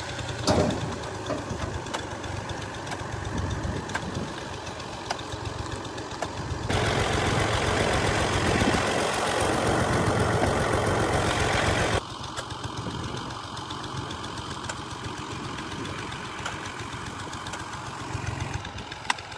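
Combine harvester's diesel engine and threshing machinery running steadily, with a louder stretch of about five seconds in the middle that starts and stops abruptly.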